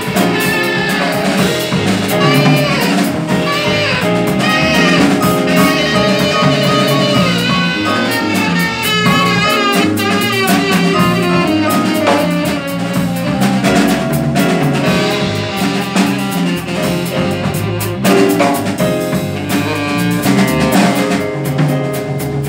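Jazz quartet of saxophone, piano, bass and drums playing, with a drum kit keeping time on cymbals throughout.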